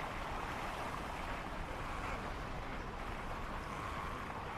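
Steady rushing of ocean waves and surf.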